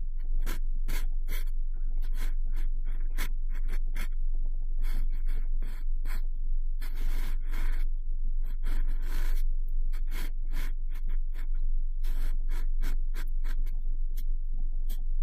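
Cotton swab swirled and rubbed inside the ear of a binaural microphone: a close, continuous run of scratchy rustles and scrapes, with two longer rubbing strokes in the middle, over a constant low rumble.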